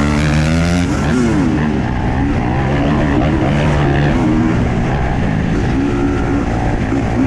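Husqvarna TE 250i two-stroke enduro motorcycle engine being ridden, revving up and down repeatedly, its pitch rising and falling several times over a rough rushing noise.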